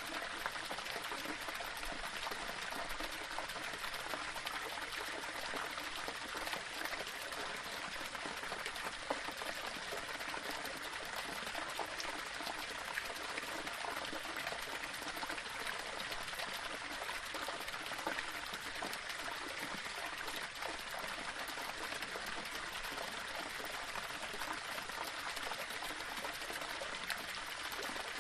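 Small waterfall splashing and trickling steadily over rocks.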